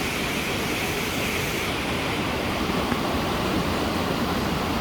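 Steady rushing of a waterfall, an even roar of falling water with no change.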